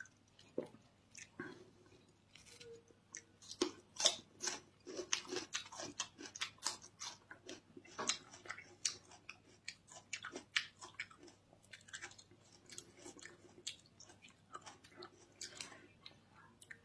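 Chewing of soft boiled sheep-tail fat: an irregular run of short smacks and clicks, several a second.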